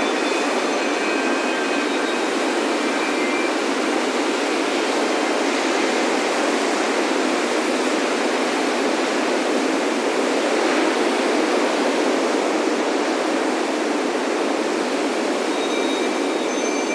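Steady roar of ocean surf washing onto a beach, with a few faint wind-chime tones ringing near the start and again near the end.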